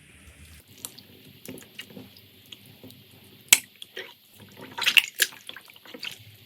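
Slime being squeezed and pressed by hand, making wet, sticky clicks and small pops. A sharp pop comes about three and a half seconds in, and a cluster of louder clicks follows around five seconds.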